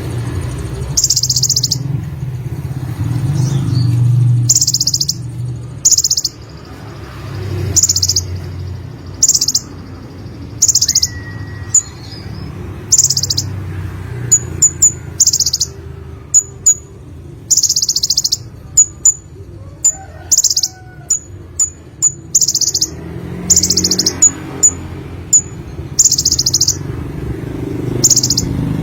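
Sunbird (konin) singing: a series of short, high, buzzy trilled notes about a second apart, with quick sharp chips between them through the middle stretch. A low steady rumble runs underneath.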